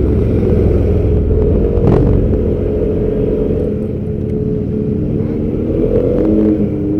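Motorcycle and scooter engines running at close range, a steady engine note that rises slightly in pitch near the end.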